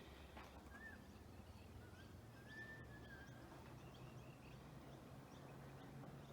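Near silence with a few faint bird calls: a short whistle about a second in and a longer, slightly wavering one near the middle, over a low steady background hum.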